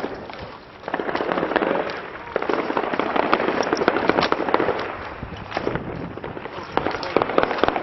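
Heavy small-arms gunfire: many rapid, irregular shots in overlapping bursts.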